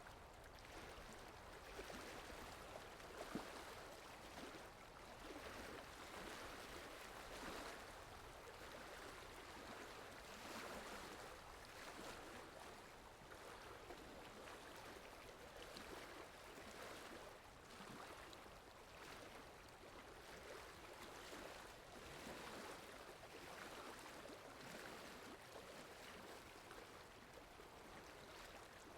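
Faint, steady rain falling, an even soft hiss of water that swells and eases slightly.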